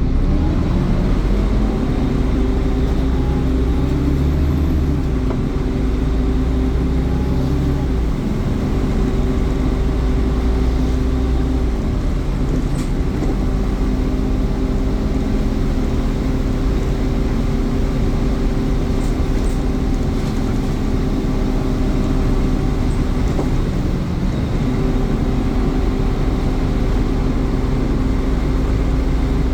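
Scania N230UD OmniCity double-decker bus heard from on board: its diesel engine running with a steady whine from the cooling fans, the engine note shifting several times as the bus drives.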